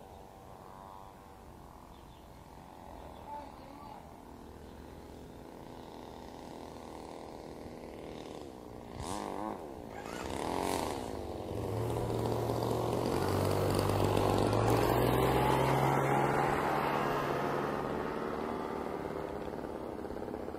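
Motor and propeller of a radio-controlled model biplane flying past, a whine that grows louder to a peak about two-thirds of the way in and then fades, its pitch sliding as it passes.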